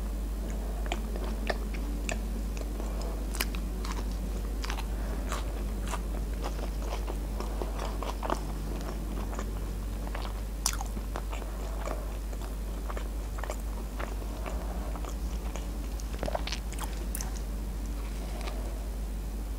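Close-miked biting and chewing of a KFC Bigger burger: soft bun and juicy, sauce-soaked filling, with many small wet mouth clicks and smacks and the odd soft crunch. A steady low hum lies under it throughout.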